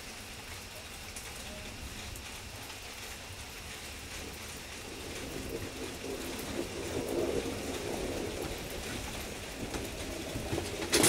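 Heavy rain falling steadily, with a low rumble that swells from about five seconds in and eases off near the end.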